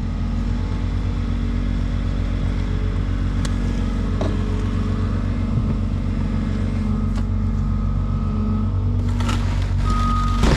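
Skid steer loader's engine running steadily under load, with a few light knocks and clanks.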